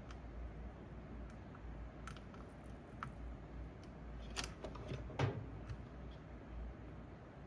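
Scattered light clicks and snips of small hand tools and parts being handled during reassembly of the LCD device, with a quick cluster of clicks about four to five seconds in, the loudest just after five seconds.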